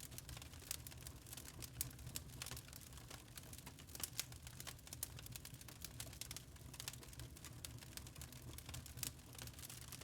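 Wood fire burning in a fireplace, crackling and snapping in quick, irregular sharp clicks over a faint low rumble.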